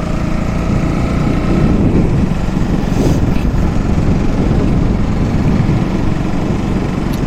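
KTM 200 Duke's single-cylinder engine running while the motorcycle is ridden, a steady low rumble.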